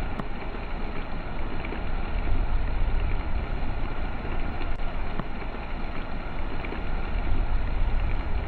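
Steady storm noise: wind rushing over and buffeting the microphone, with a strong low rumble.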